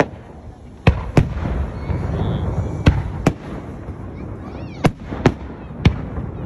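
Aerial firework shells bursting overhead: about eight sharp bangs, several coming in quick pairs, over a continuous low rumble.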